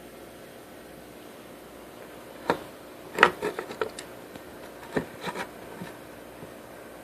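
A handful of short knocks and clatters in two clusters, the loudest about three seconds in, over a steady low hiss; no engine is running.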